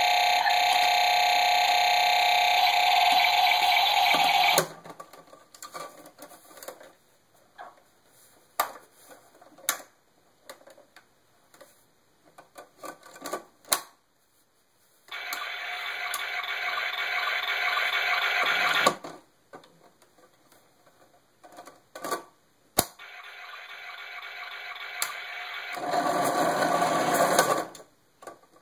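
Circuit-bent toy washing machine's sound chip giving out three harsh, steady electronic buzzes a few seconds each. The second grows louder, and the third steps up in loudness near its end. Between the buzzes are scattered small clicks and ticks.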